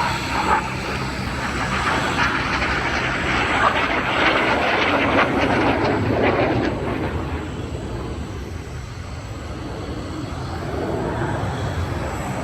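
Engine noise of a fixed-wing aircraft flying past, growing louder over the first half, easing off, then swelling again near the end.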